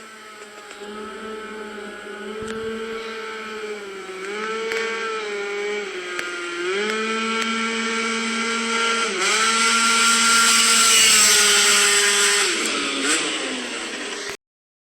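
Tuned two-stroke scooter engine, a Yamaha Aerox with a Top Performance TPR 70cc Minarelli kit and Pollini Evolution expansion exhaust, running at high revs. The pitch holds high and nearly steady with a few brief dips, the sound grows louder, then the revs fall near the end before it cuts off suddenly.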